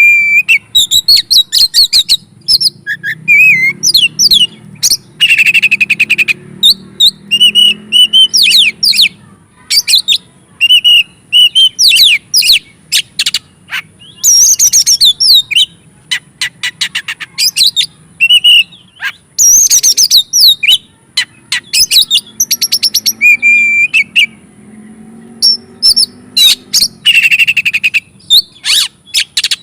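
Oriental magpie-robin (kacer) singing a loud, continuous, varied song of whistles, fast trills, sweeping notes and rapidly repeated buzzy phrases, with only short gaps. This is the agitated full song used as a lure to rouse other magpie-robins.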